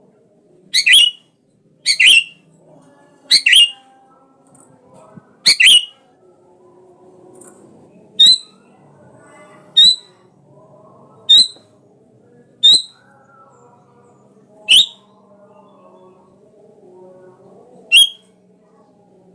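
Sooty-headed bulbul (kutilang) calling: about ten short, sharp, high calls, each repeated after a pause of one to three seconds, with the pauses growing longer after the first few calls.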